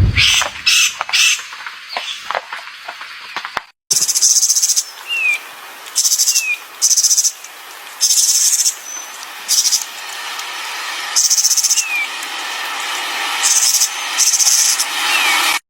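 A songbird singing: a series of short, high, buzzy trills, with a few brief down-slurred notes between them.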